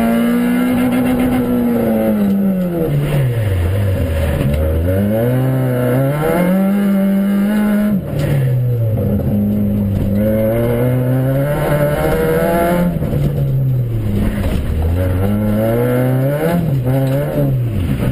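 Rally car engine heard from inside the cabin, driven hard: the revs climb and drop again and again as the driver accelerates, lifts and shifts, over a rough rumble from the loose gravel surface.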